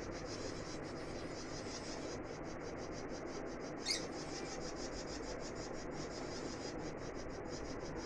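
Caged birds chattering in a fast, even twitter, with one sharper squeak about four seconds in, over a steady low background hum.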